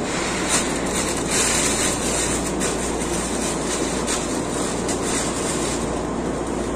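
Steady rumble and hiss of electric trains in a station, with a few faint light clicks.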